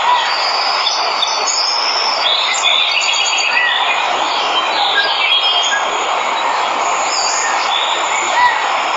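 Steady rushing of a waterfall, with many birds chirping and trilling over it. A short rising-and-falling call sounds once near the start and again near the end.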